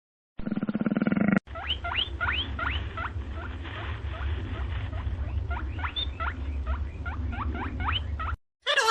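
Animal calls: a short, low, buzzy call, then a long run of quick high squeaks, each rising sharply in pitch, about three a second, over a steady low rumble.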